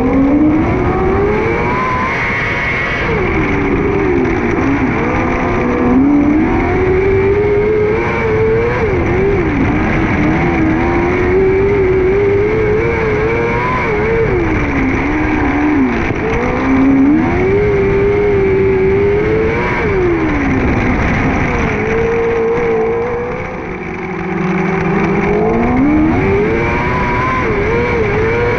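600cc micro sprint car's motorcycle engine racing on a dirt oval. Its pitch climbs under throttle and falls off again and again as the car lifts for the corners.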